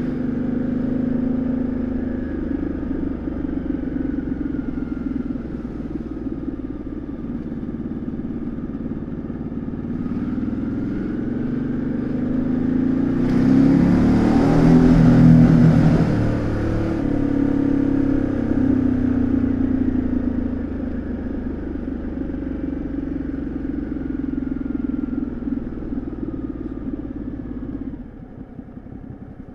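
Exhaust of a 2013 Ducati Multistrada 1200S's V-twin while riding, the engine note rising and falling with the throttle. A louder rush of noise swells in the middle, and the engine drops back near the end.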